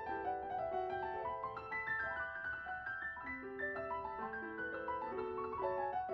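Solo piano background music: a gentle melody of held notes.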